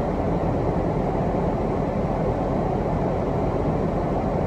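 Steady rushing air from a car's heater fan set to defrost, with the engine idling, heard inside the cabin.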